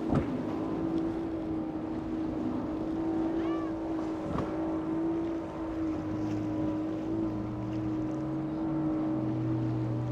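Motorboat engines running with a steady note, joined by a second, lower engine note about six seconds in.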